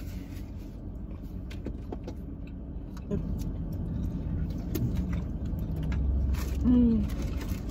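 Biting and chewing burgers, with scattered small clicks and rustles, over the steady low hum of a parked car's interior. A short hummed "mm" sounds near the end.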